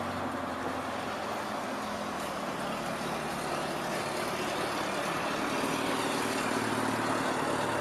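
Steady road noise of a moving vehicle: an even hiss over a low engine hum, slowly growing louder.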